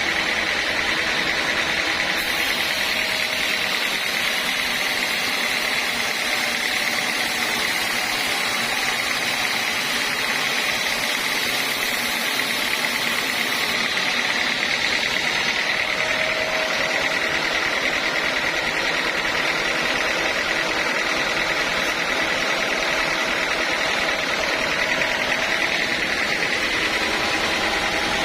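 Band sawmill running steadily: continuous machine noise with a steady high-pitched tone.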